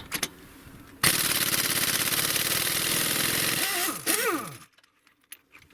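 Impact wrench hammering on a stuck engine bolt in one continuous burst of rapid blows. It starts abruptly about a second in, runs for about three and a half seconds and stops sharply.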